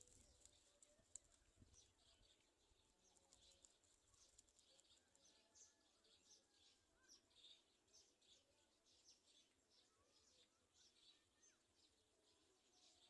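Faint high bird chirps, many short calls repeating in quick succession.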